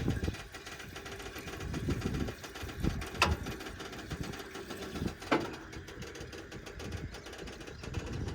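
Tractor diesel engine running with an uneven low rumble, with two sharp clacks about two seconds apart.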